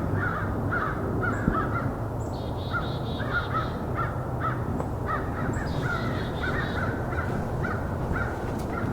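A flock of American crows cawing in an excited racket, many short caws overlapping without a break. The narrator says it could mean a predator in the area, or it could just be rival crows.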